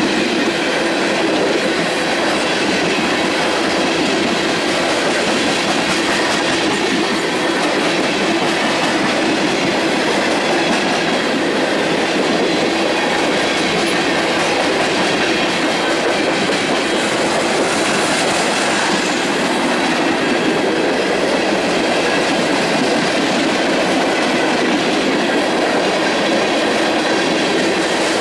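Union Pacific manifest freight train's tank cars, covered hoppers and boxcars rolling past close by: a steady noise of steel wheels running on rail, with no horn or speech.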